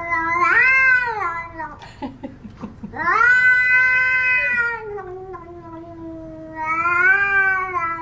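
A domestic cat meowing in long, drawn-out calls: one that ends about two seconds in, then a longer one that rises, sinks and rises again in pitch.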